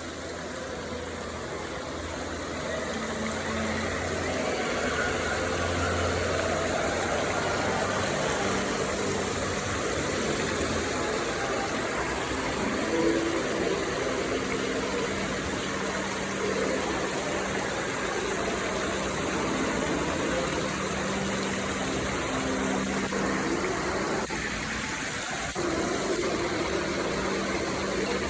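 Steady low machine hum over a constant haze of noise.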